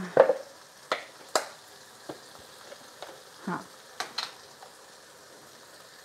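Onions and red peppers sizzling quietly in sauce in a steel kadhai, with a few sharp clicks and taps scattered through the first few seconds.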